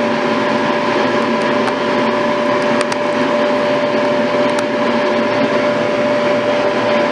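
Sandblasting cabinet blasting a car wheel rim to strip it for repainting: a steady hiss of the air-and-grit blast over a constant hum, with scattered faint ticks.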